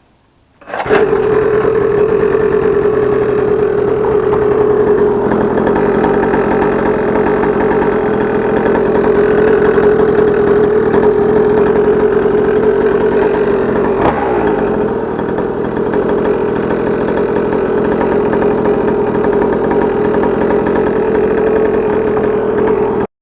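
Small two-stroke dirt bike engine running steadily through a home-made muffler, starting abruptly about a second in and cutting off sharply near the end, with a brief click and slight dip in level around the middle.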